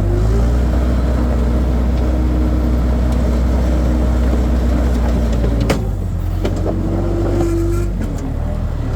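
Skid steer loader's engine running steadily under work, with one sharp knock a little past halfway, after which the engine note drops.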